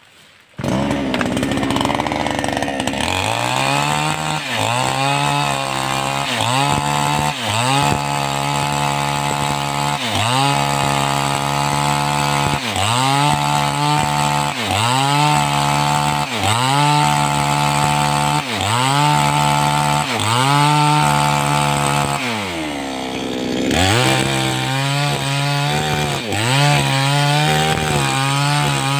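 A 588X two-stroke chainsaw starts loud about half a second in and runs at high revs cutting wood. Its engine pitch dips and recovers about once every 1.3 seconds, with one longer, deeper drop near the end before it picks up again.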